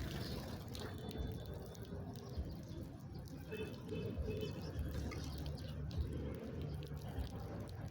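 Faint high bird chirps in two short clusters, about a second in and again near the middle, over a steady low background noise with small ticking sounds.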